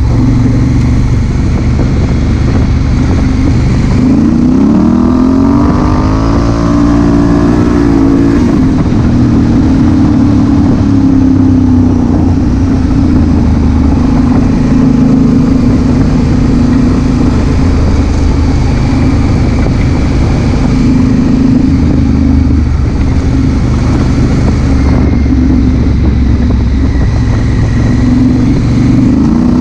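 Honda Africa Twin CRF1000L's 998 cc parallel-twin engine running under way, with wind rush at the helmet-mounted camera. About four seconds in the revs climb, then the engine settles into a steady cruise.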